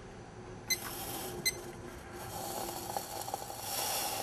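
Two short electronic beeps, about a second apart, then a steady hiss and sizzle building from about halfway: a Trangia alcohol burner heating a stainless steel bottle of water on its way to the boil.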